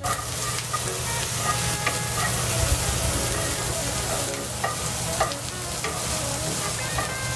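Chopped onions and garlic sizzling in hot oil in a skillet as they are stirred, with occasional light knocks and a steady low hum underneath.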